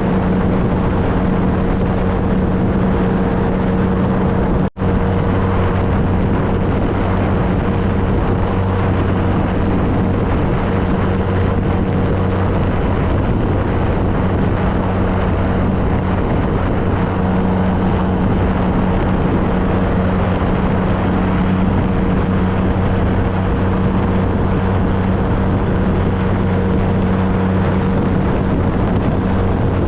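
2013 Triumph Trophy SE's three-cylinder engine running at a steady speed under way, with wind and road noise over it. The sound cuts out for an instant about five seconds in.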